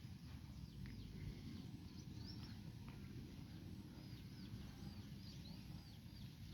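Faint birds chirping: many short, quick calls repeating throughout, over a low steady background rumble.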